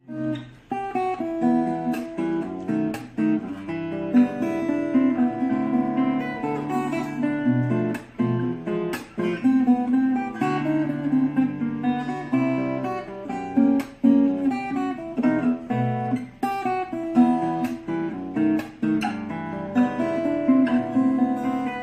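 Acoustic steel-string guitar played solo, a plucked melody over bass notes with strummed chords and frequent sharp percussive strokes.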